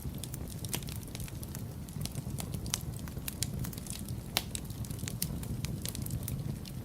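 Wood fire crackling in a fireplace: a steady low rumble of burning with frequent sharp, irregular snaps and pops, one louder pop about four and a half seconds in.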